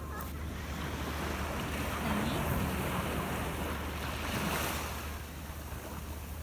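Sea waves washing onto a beach, the surf swelling twice, with wind buffeting the microphone.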